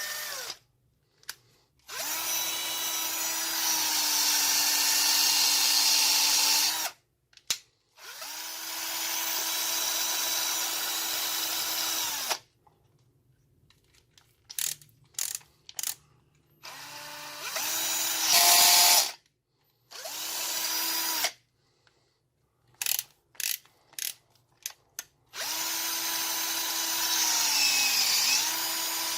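12 V cordless drill with a freshly cleaned and greased gearbox, run up five times for a few seconds at a time with short clicks between runs. Its pitch dips briefly near the end as the speed drops.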